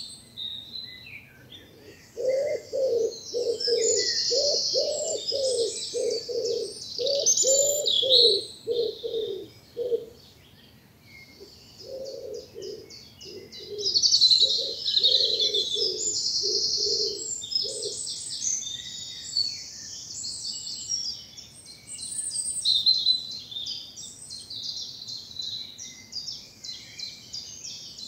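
Woodland dawn chorus: small songbirds sing high, fast chirps and trills throughout. A pigeon coos in repeated low phrases from about two seconds in, pauses briefly, and stops a little past the middle.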